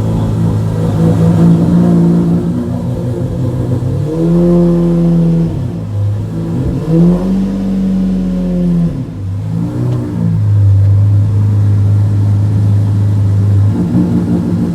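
Lamborghini Murciélago V12 running just after a cold start: a raised idle, then revved three times, the last a short blip, before settling to a lower, steady idle.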